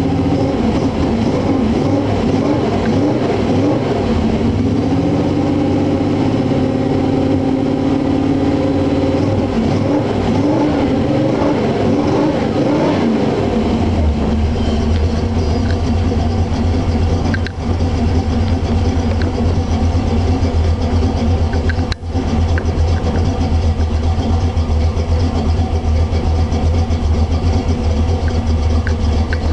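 1971 Chevy pickup's 355 small-block V8 running while it warms up after a cold start. The revs waver up and down at a fast idle for the first half, then it drops to a lower, steady idle about halfway through.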